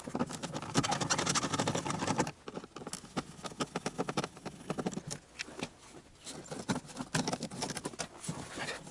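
Door card (trim panel) of a Lada 2114 rear door being removed: a rapid run of clicks, taps and scrapes from plastic trim and fastener clips being worked loose. It is busiest in the first two seconds, then sparser and quieter.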